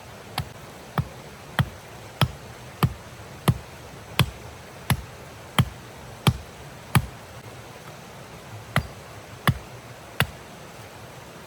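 A steady series of sharp knocks, about one and a half a second: eleven strikes, a short pause, then three more, over a steady rushing hiss.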